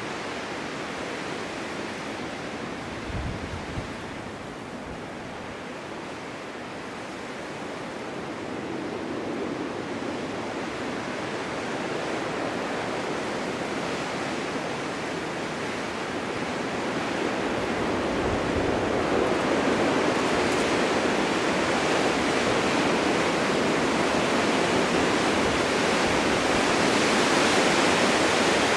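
Wind in a snowstorm blowing across a forest meadow, a steady rush that swells gradually to a louder, fuller rush over the middle of the stretch and then holds. Two brief low thumps come about three seconds in.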